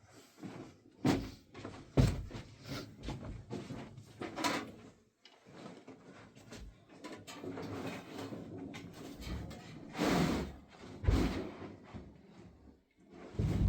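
Irregular knocks, bumps and scrapes of household objects being handled and moved, with a few sharper thuds like a door or drawer being shut.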